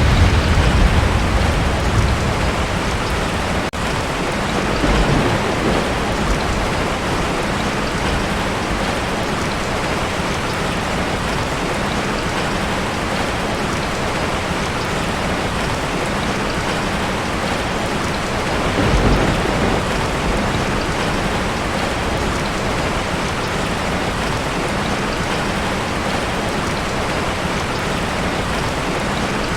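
Heavy rain pounding steadily on a tin roof, with low rolls of thunder dying away at the start and again about two thirds of the way through.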